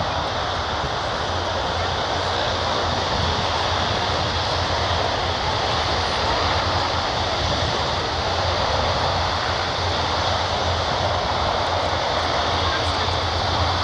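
Jet airliner's engines running steadily near the runway as it waits to take off, a continuous noise with a low hum that builds slowly in loudness.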